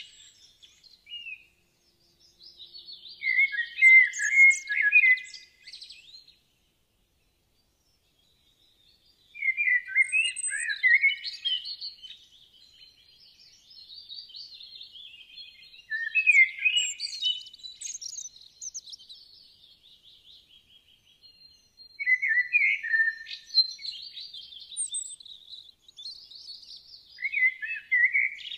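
Birds singing in bursts of quick, high chirping and trilling phrases every few seconds, with a silent gap of about three seconds starting about six seconds in.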